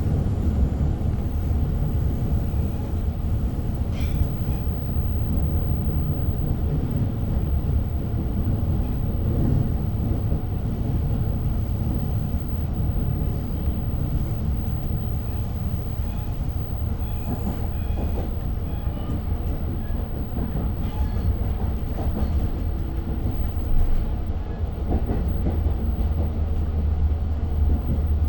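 Long Island Rail Road passenger train running at speed, heard from inside the coach. A steady deep rumble of the wheels on the rails is broken by a few faint clicks.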